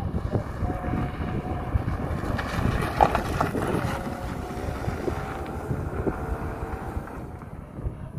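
Wind buffeting the microphone over a low, steady rumble, with a few short, faint tones over it.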